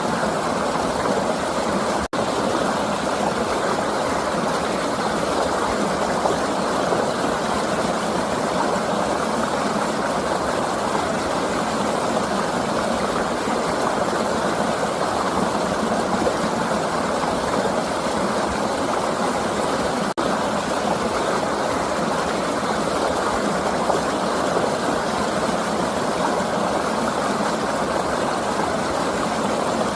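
Flowing river water rushing steadily, an even, unbroken noise that drops out for an instant twice.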